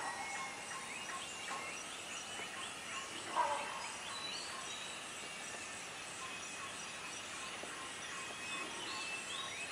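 Bornean rainforest dawn chorus: many birds and insects calling over one another in thin whistles and chirps, with one louder short call about three and a half seconds in.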